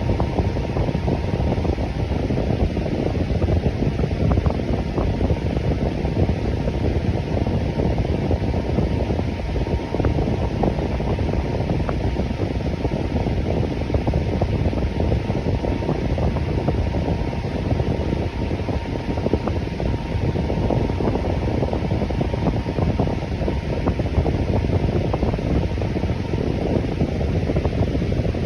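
Electric fan running steadily: an even, low rushing whir of moving air, with a faint steady hum riding on it.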